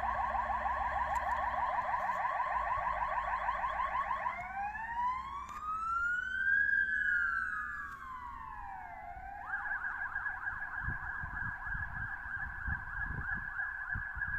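Fire engine's electronic siren on an emergency run. It gives a fast warbling yelp, then one slow wail that rises and falls, then switches back to the fast yelp about nine seconds in. Engine rumble runs underneath.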